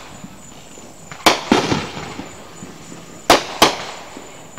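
Aerial fireworks exploding in the neighbourhood: four sharp bangs in two quick pairs, the first pair about a second in and the second a little past three seconds, each trailing off in a short echo.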